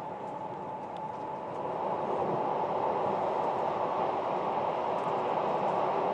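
Steady rumble of a train running along the track, heard from the driver's cab. It grows a little louder about two seconds in.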